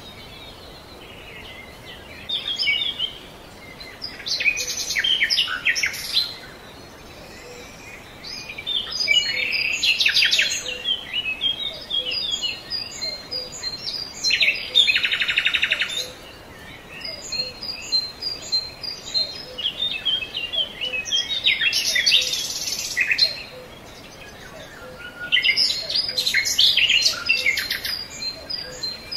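Birds singing: chirping phrases of song come every few seconds, one of them a buzzy trill about halfway through, over a steady background hiss.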